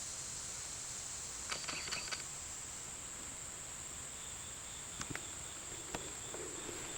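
A steady, high-pitched insect chorus, an unbroken drone of summer insects in the woods, with a faint rustle and a few small clicks.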